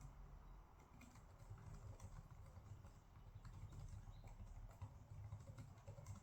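Faint, irregular clicks and taps of desk work, a few a second, over a low steady room rumble.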